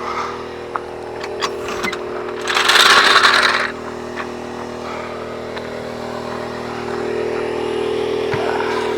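A motor runs steadily throughout, with a few light clicks early on and a loud hiss lasting about a second, around three seconds in.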